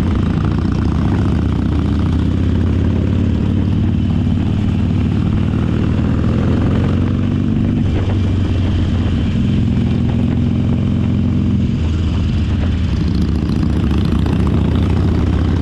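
Harley-Davidson V-twin motorcycle engine running steadily under way, with a deep exhaust note and a brief dip in the engine sound about halfway through.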